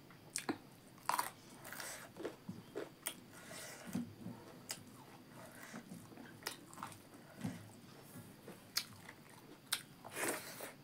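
Close-up eating sounds: crunchy bites and chewing of carrot slices and hand-eaten rice, heard as irregular crisp clicks and smacks, with a longer wet burst near the end as a mouthful goes in.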